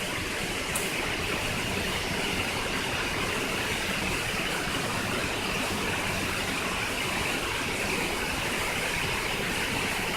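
Waterfall rushing, a steady even roar of falling water with no break in it.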